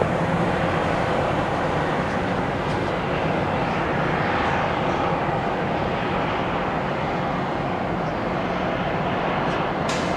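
Jet airliner engines running, a steady rush of noise with a faint whine held through.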